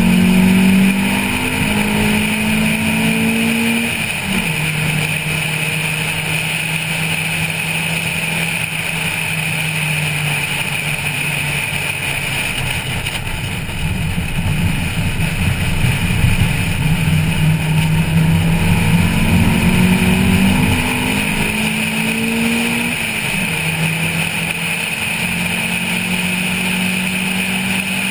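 Stock Honda Civic 1.5-litre engine pulling hard through the gears, its note climbing and then dropping sharply at upshifts, about 4 s in and again past 20 s. It is heard over steady wind and road noise on a roof-mounted camera.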